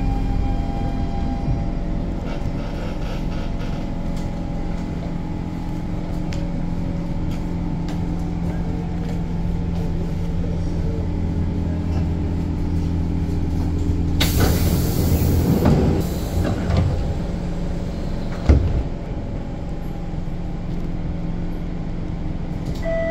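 SMRT C651 train standing at a station platform, heard from inside the carriage: a steady low hum with a higher tone that stops about a second in. About two-thirds of the way through comes a loud hiss lasting about two seconds, then a single sharp thump.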